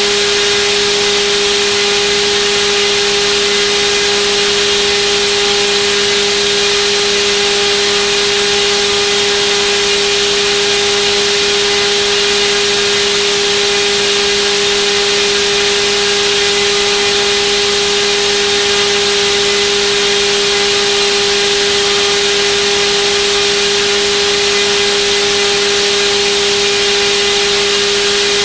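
Turnigy D2826/10 1400kV brushless outrunner motor spinning a propeller at a steady speed: a constant whine with a loud rush of air from the prop, holding the same pitch throughout.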